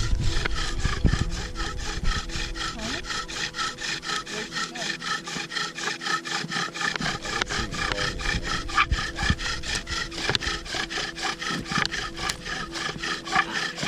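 Bow drill spindle grinding in a wooden fireboard, worked in rapid, even back-and-forth strokes. It is the friction that heats the board toward an ember.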